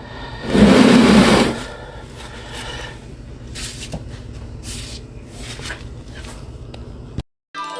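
A steady low mechanical hum, with a loud rushing noise about half a second in that lasts about a second, and a few faint clicks. The sound cuts off suddenly near the end.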